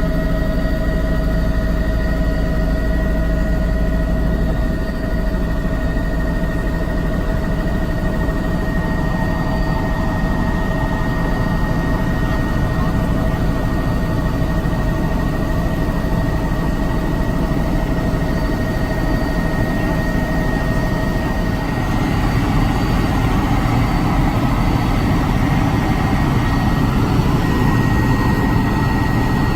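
Helicopter engine and rotors running continuously: a loud, steady drone with a constant whine over a heavy rumble.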